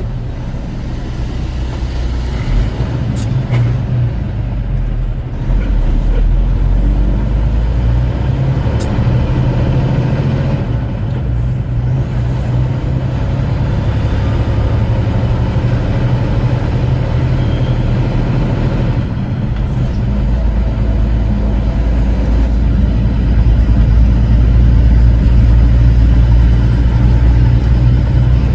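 Semi truck's engine running as the truck drives, heard from inside the cab: a steady low rumble that grows a little louder in the last several seconds.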